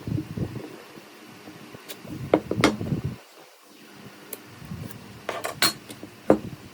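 Workshop handling noise: irregular knocks and metallic clinks of tools and pieces being set down and moved about, with a louder cluster of strikes about two and a half seconds in and again near the end.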